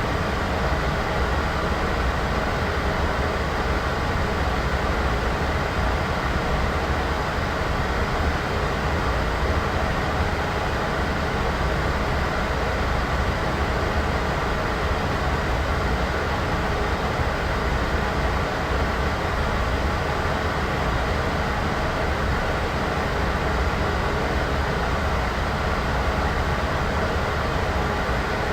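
Steady white-noise sound effect: an even, unbroken hiss with a heavy low rumble underneath, unchanging throughout.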